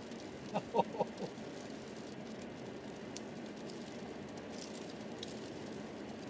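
Steady road noise of a car driving through deep, unplowed snow, with a quick run of four short knocks about half a second to a second in.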